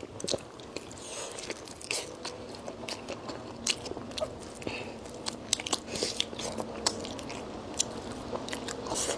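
A person biting and chewing food close to the microphone: irregular crisp crunches and wet mouth clicks, some louder than others.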